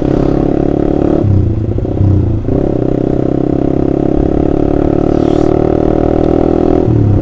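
Honda CBR150R's single-cylinder engine running through an aftermarket Austin Racing exhaust while riding at a steady pace. The note holds steady, with short breaks about a second in and again near the end.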